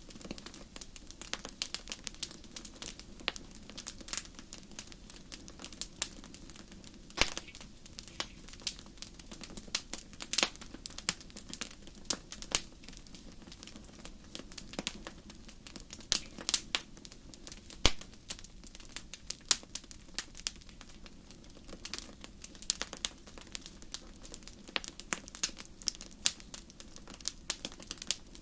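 Fireplace fire crackling: a dense, irregular run of small snaps with an occasional louder pop, over a steady low rumble of flame.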